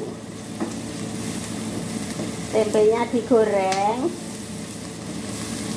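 Tempe and a spice paste of garlic, shallots and chillies frying in hot oil, a steady sizzle. A woman's voice sounds briefly in the middle.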